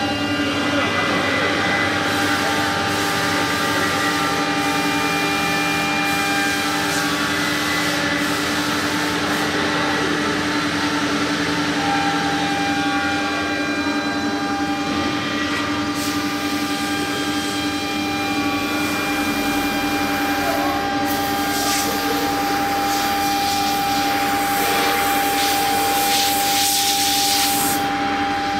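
Air-cooled 3.5 kW spindle of a CNC router running with a steady whine as the bit cuts fiberboard, with a rough cutting hiss. About three quarters of the way in the hiss grows harsher and louder, then eases near the end.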